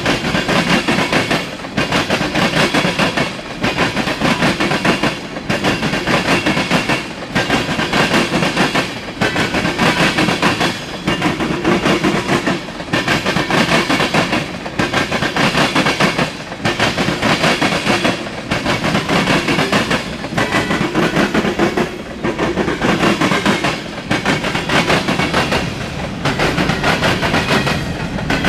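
Norfolk Southern freight cars rolling past, their wheels clattering over the rails. The clatter swells and eases in a steady rhythm, about once every two seconds, as each car goes by.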